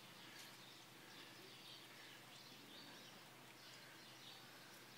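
Near silence, with faint high bird chirps repeating in the background.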